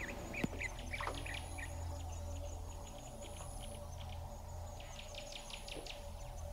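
Small birds chirping in short, quick calls, with a fast run of chirps about five seconds in, over a steady low hum.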